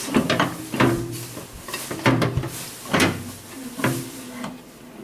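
Several sharp knocks and clatters as the microwave's turntable tray is set back in place and the oven handled.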